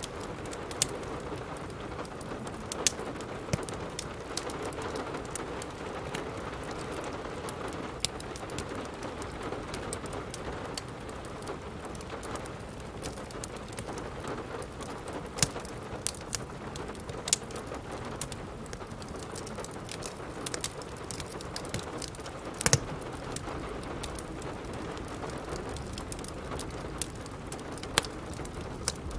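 Steady rain with the scattered sharp pops and crackles of a wood fire burning in a fireplace, one louder pop a little past the middle.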